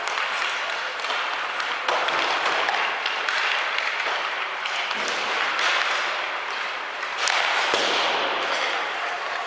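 Ice hockey game din in an arena: a steady noisy wash of skates and crowd, broken by several sharp knocks from sticks, puck and boards. The loudest knock comes about seven seconds in.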